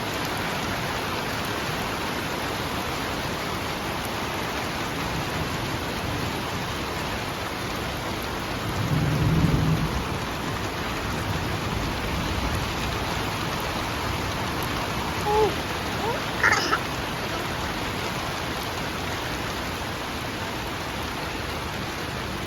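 Steady rain falling, with a low rumble of thunder swelling about nine seconds in. A few short high rising calls sound briefly near 16 seconds.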